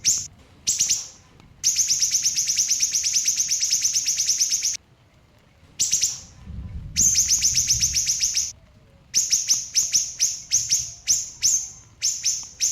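A small songbird known in Indonesia as siri-siri singing rapid, tightly packed trills of sharp high notes, two long runs of about three seconds and a second and a half, then separate sharp chips about three a second near the end.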